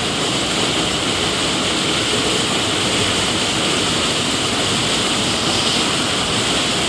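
Ryko Soft Gloss Maxx 5 automatic car wash at work: the cloth side brushes spinning against a vehicle amid water spray, a steady rushing noise.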